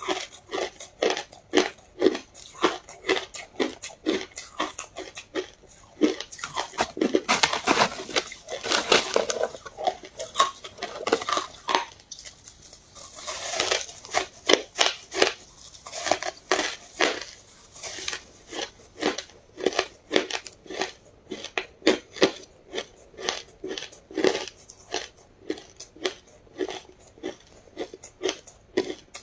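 Ice being bitten and chewed: a steady run of sharp crunches about two a second, with denser crackling stretches about a quarter and about half of the way through.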